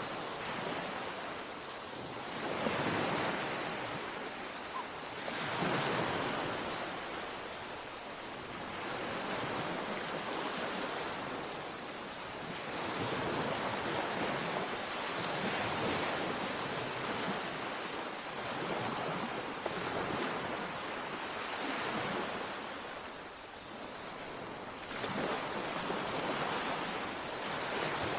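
Sea waves breaking on a shore, a steady wash of surf that swells and falls back every few seconds.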